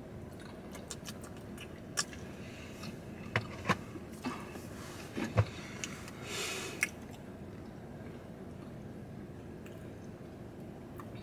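Eating sounds from people chewing soft cookies: scattered lip smacks, mouth clicks and small knocks over the first seven seconds or so, with a short rustle about six seconds in, then only a steady low hum inside the car.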